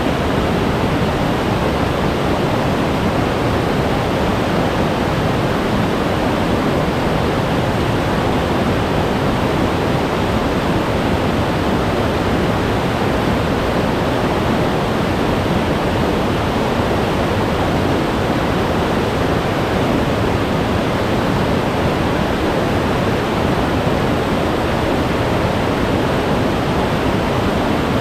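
Glacier-fed mountain stream of meltwater rushing over rocks: a loud, steady rush of water.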